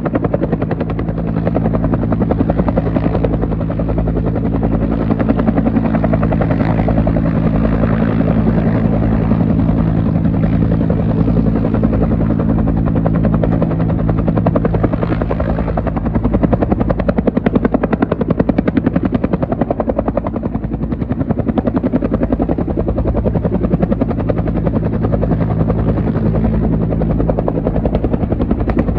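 Military helicopter running close by: the rapid, continuous chop of its rotor blades over a steady low engine and rotor hum. The hum eases somewhat midway, then strengthens again.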